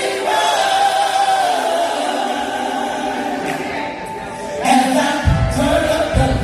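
Choir singing a gospel song in held notes, growing fuller and louder about five seconds in, when deep low notes come in.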